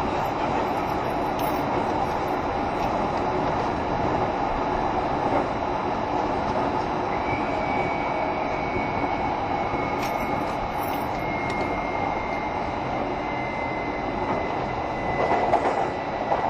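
JR Shikoku 7200 series electric multiple unit running on the line, a steady rumble of wheels and running gear on the rails. A thin, high, steady whine comes in about seven seconds in and holds on to the end.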